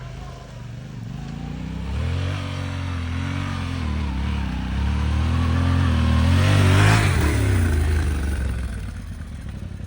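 Yamaha Ténéré 700's parallel-twin engine running while riding, pulling harder about two seconds in and easing off near the end. A brief rushing noise comes about seven seconds in.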